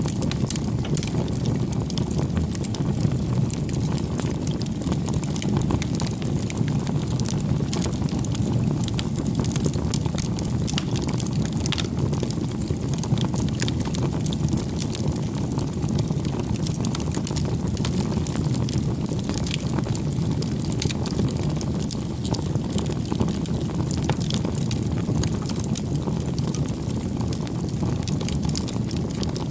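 Wood fire burning: a steady low rush of flames with frequent, irregular small crackles and pops.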